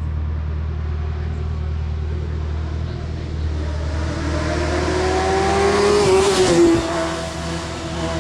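Hillclimb race car accelerating up toward and past the listener, its engine note climbing in pitch and getting louder, loudest about six and a half seconds in, then dropping in pitch as it goes by. A steady low hum runs underneath.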